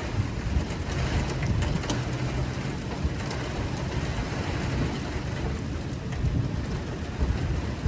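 Steady rain with the low, continuous rumble of a car driving through it.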